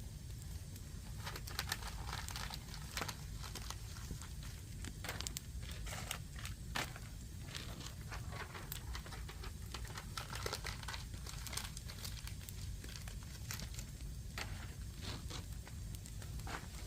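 Wood fire crackling, with small sharp pops at uneven intervals over a steady low rumble.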